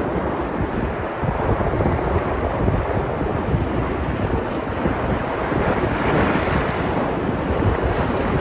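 Sea surf: waves washing and breaking on the shore in a continuous rush, swelling as a wave breaks about six seconds in.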